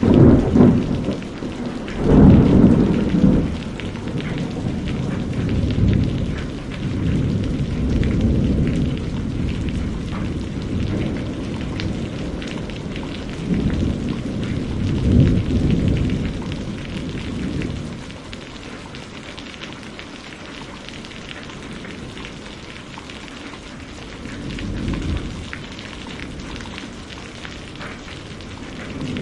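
Steady rain falling, with low rolls of thunder that swell and fade several times: the strongest near the start and around the middle, a softer one near the end.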